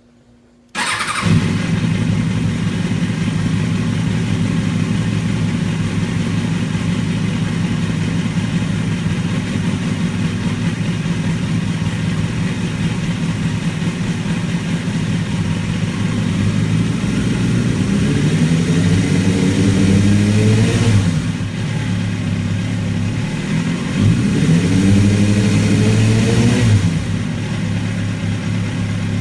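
An engine starts abruptly about a second in and runs steadily, then is revved twice, the pitch rising and falling for a few seconds each time.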